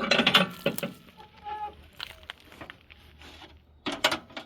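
Short clucking calls like a chicken's among a few sharp knocks and clanks, the loudest just at the start and again about four seconds in.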